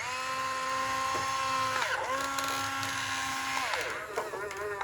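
A small electric motor whines at a steady pitch in two runs of a second or two, its pitch sliding up as it starts and down as it stops, like a motor spinning up and winding down.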